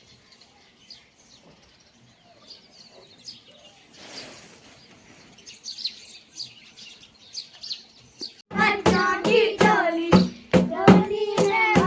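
Faint birds chirping. About three-quarters of the way in, voices start singing together, with steady rhythmic hand clapping that starts abruptly.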